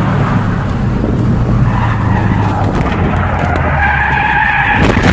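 Turbocharged car engine running hard with tyres skidding. The engine note drops about halfway through, and a steady high-pitched squeal sounds through the second half.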